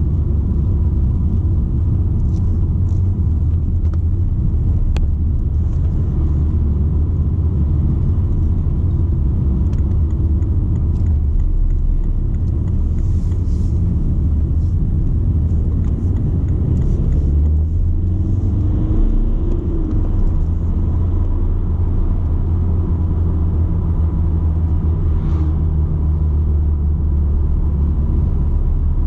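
Steady low rumble of a BMW 120d on the move, heard from inside the car: tyre and road noise over its four-cylinder turbodiesel. The engine pitch shifts briefly about two-thirds of the way through.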